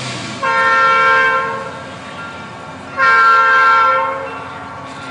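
Locomotive air horn sounding two long blasts about two and a half seconds apart, each a steady chord of several notes.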